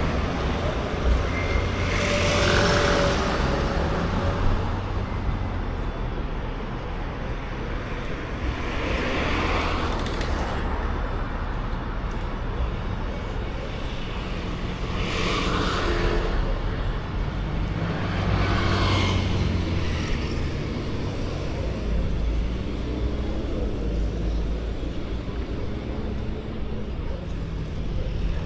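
Road traffic: a few vehicles pass one at a time, each a whoosh that swells and fades within a second or two, over a steady low rumble.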